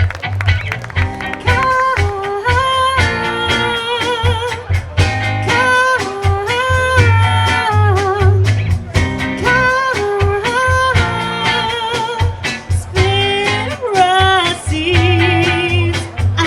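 Live band playing an instrumental passage: bass and drums under a melodic lead line of held notes that waver in pitch.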